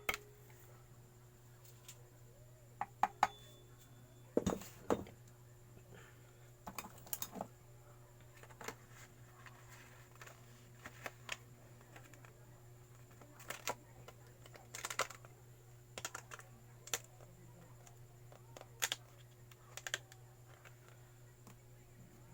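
Scattered light clicks and taps at irregular intervals, a second or two apart, from hand work on the gasket and engine parts. A steady low electrical hum runs underneath.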